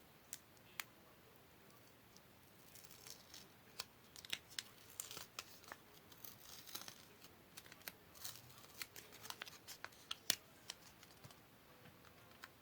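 Paper being handled and cut for a paper-craft model: a faint string of small snips, rustles and clicks, busiest from about three seconds in, with one sharper click near the end.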